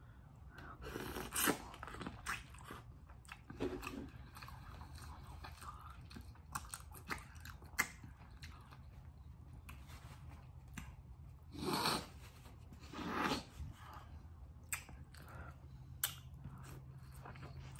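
Close-miked chewing and smacking of sauce-coated corn kernels, with many small wet mouth clicks and a few louder bites or smacks, one about a second and a half in and two around twelve to thirteen seconds.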